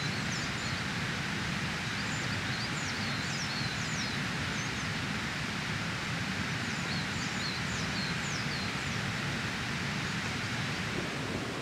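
Small birds chirping in three short runs of quick, high, falling notes over a steady rushing outdoor background.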